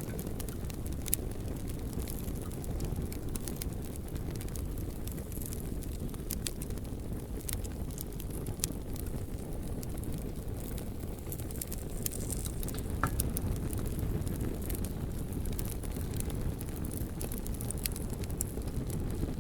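Campfire crackling, with sharp pops and snaps scattered irregularly over a steady low rumble.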